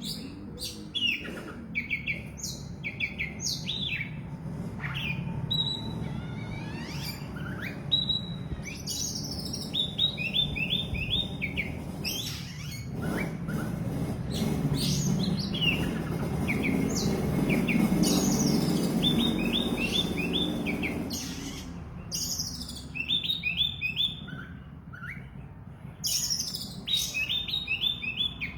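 Oriental magpie-robin in full song: varied whistled phrases and quick runs of repeated high notes, one after another. A low background rumble swells up in the middle.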